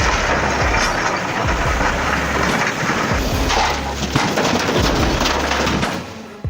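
Heavy vehicle running: loud, steady engine rumble with rough mechanical and road noise, fading near the end.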